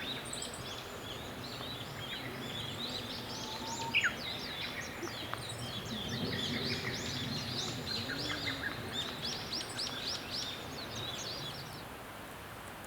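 Small birds chirping and twittering rapidly, several calls overlapping, over steady low background noise, with one sharp click about four seconds in; the birdsong fades out shortly before the end.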